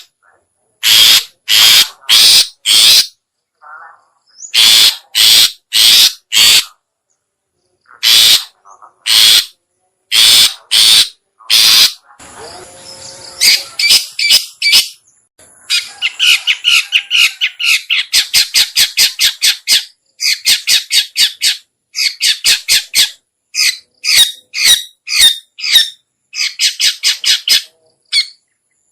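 Lure-call recording of a long-tailed shrike (cendet/pentet) giving loud, harsh "toet toet" calls. The calls come first in groups of three or four, then from about halfway through in a faster run of several calls a second.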